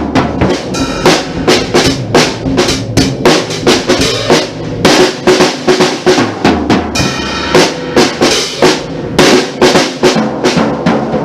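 Drum kit being played in a steady groove, a continuous run of sharp strikes several per second, counted in beforehand.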